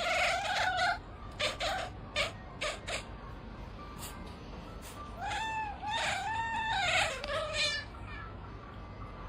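Domestic cat meowing: one drawn-out call at the start, then a run of about four or five rising-and-falling meows in the second half. A few sharp clicks or knocks come between them.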